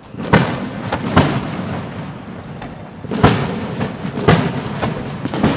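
Aerial fireworks shells bursting overhead: five loud booms at uneven intervals, each followed by a rolling rumble.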